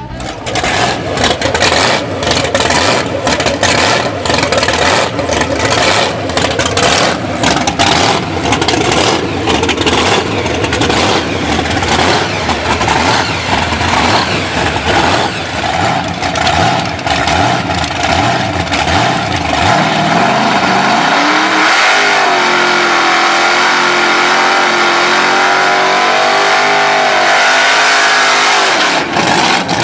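A supercharged Hemi V8 idling rough and lopey, its blower surging. About 20 seconds in it revs up quickly and holds high rpm for about eight seconds in a burnout, then drops back off.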